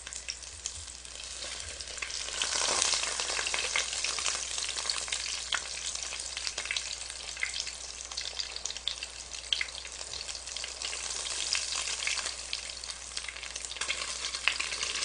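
Egg-battered pollock fillet (dongtae-jeon) frying in hot oil in an electric pot. It sizzles with dense crackling and small pops, swelling about two seconds in.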